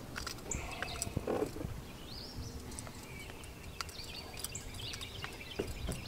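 Songbirds chirping and singing, with a few light clicks and knocks.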